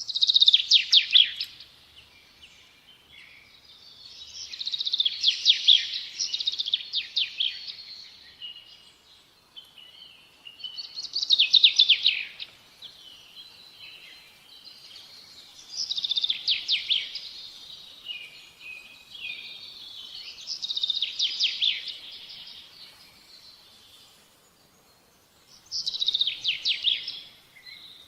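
A bird singing: six phrases of rapid, high trilled notes, each a second or a few seconds long, repeated about every four to five seconds over faint background noise.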